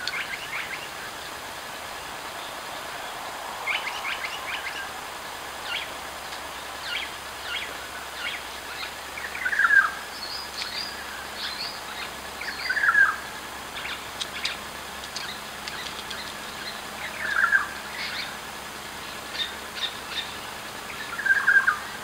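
Birds calling: a short, loud call that slides downward in pitch, repeated about every three to four seconds, among scattered short chirps and clicks, over a steady hiss.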